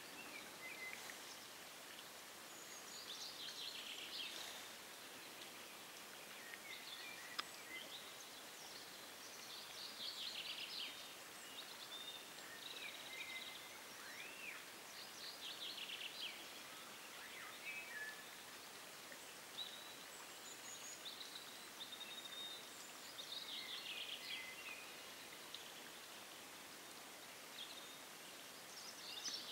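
Songbirds singing in short trilled and chirped phrases every few seconds over a faint steady outdoor hiss.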